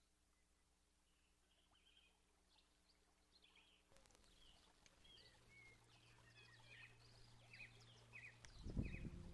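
Faint songbirds chirping and twittering, fading in and growing busier partway through. Near the end a louder low rumble breaks in.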